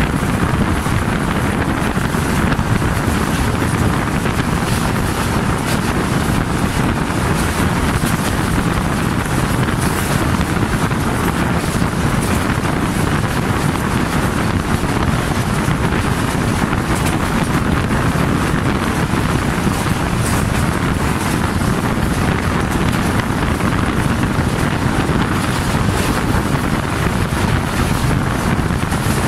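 Steady rushing wind on the microphone over the running noise of a passenger train at speed, heard from an open coach door.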